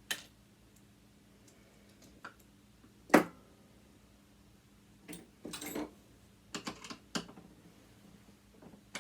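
Scattered clicks and taps of small parts and tools being handled while a sewing machine's light switch is worked loose and taken out. The sharpest knock comes about three seconds in, with a run of lighter clicks after the middle.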